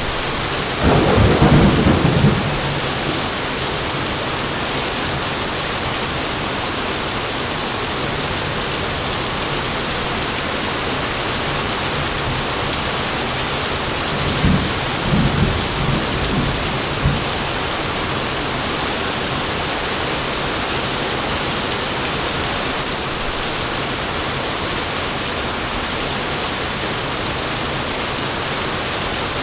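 Heavy rain pouring steadily, with a loud thunderclap about a second in and a short run of thunder cracks and rumbles around the middle.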